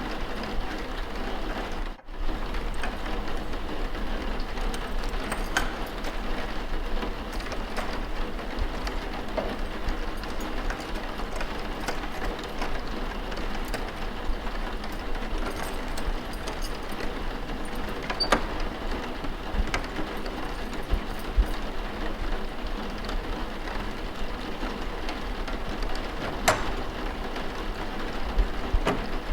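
Steady rain ambience, an even hiss, with scattered faint clicks and knocks of library noises over it and a brief dropout about two seconds in.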